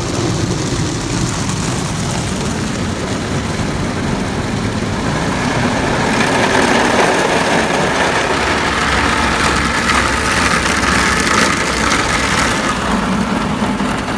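Automatic car wash tunnel at work, its rotating brushes and water sprays going over the car, heard from inside the cabin as a steady rushing noise. It grows louder about five seconds in and eases near the end.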